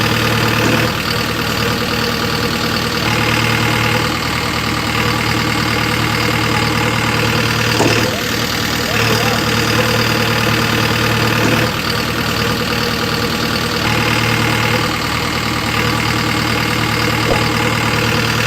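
Engine running steadily at idle, its tone changing every few seconds, as for a JCB digger or tractor.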